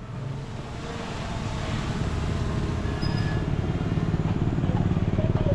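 Heavy diesel engine of earthmoving equipment running with a fast, even throb, growing louder over the first few seconds and then holding steady.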